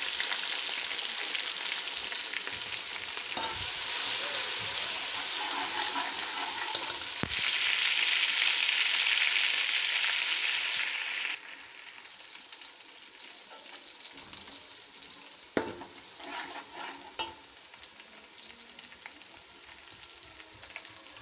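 Browned onions and ginger-garlic paste sizzling in hot oil in a metal pot, stirred with a metal slotted spoon. The sizzle is loud at first, then drops suddenly about eleven seconds in to a quieter frying hiss, with a few knocks of the spoon against the pot.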